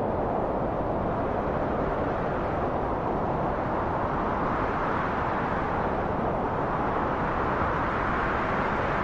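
Steady rushing wind, swelling slightly about halfway through.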